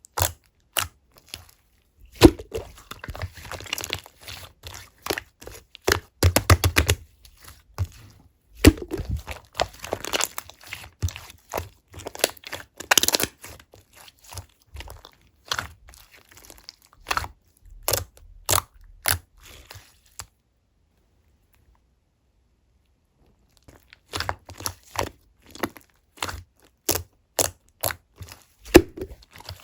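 Slime being squeezed, stretched and pressed by hand, giving quick runs of sharp popping clicks and crackles as air pockets burst. It stops for a few seconds about two-thirds through.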